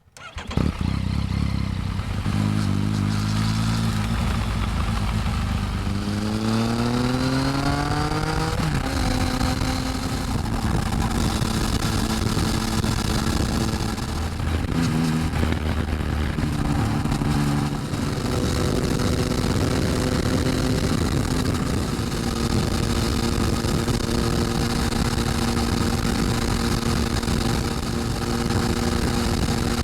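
Yamaha MT-09 inline three-cylinder motorcycle exhaust, through an aftermarket SP Tadao muffler, heard close up while riding. The engine note rises as the bike accelerates through a gear, drops sharply at an upshift about nine seconds in, and then settles into a steady cruising note with a few small throttle changes.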